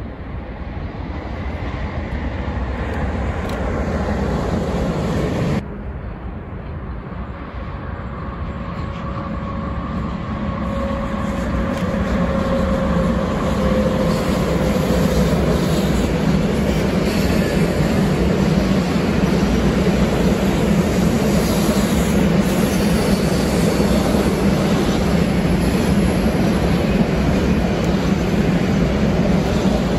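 Electric freight train on the Brenner line drawing near and passing: a rumble of locomotive and wagons rolling on the rails that grows louder, breaks off abruptly about five seconds in and builds again into a steady loud roll of wagons, with a faint whine that slides slightly down in pitch as the train goes by.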